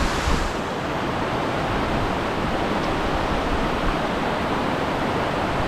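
Steady, even rush of falling water from Multnomah Falls.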